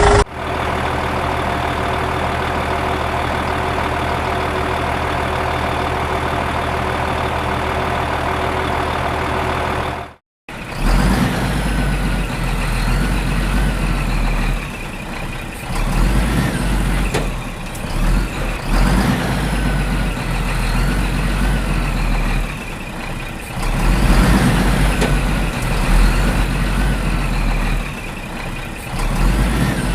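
Vehicle engine sounds. First there is a steady engine hum. After a brief break about ten seconds in, it gives way to a heavier, uneven engine rumble with repeated short rising-and-falling tones above it.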